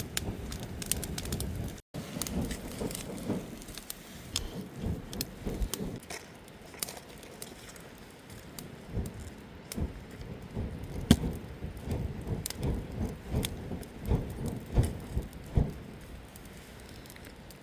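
Campfire burning wood, crackling and popping with irregular sharp cracks over low rumbling.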